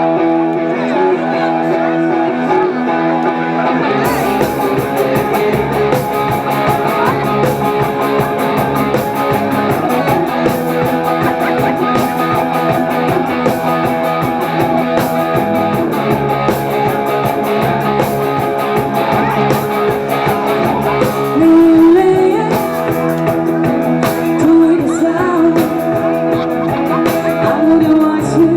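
Live rock band playing loudly. A guitar is heard on its own at first; about four seconds in the drums and full band come in, with singing over them.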